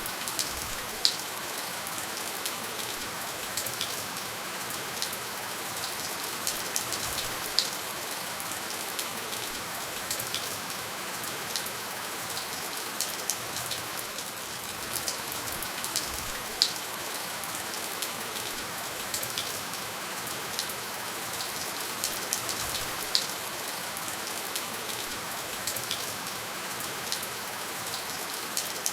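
Steady rainfall: an even hiss with scattered sharp drop ticks, a few louder drops standing out, and no thunder.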